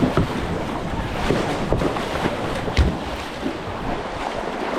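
River water rushing around a moving kayak, with wind buffeting the microphone and a few short paddle splashes.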